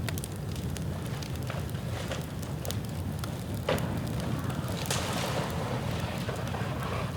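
Dry bamboo burning in an open bonfire, crackling with scattered sharp pops and one louder pop about three and a half seconds in.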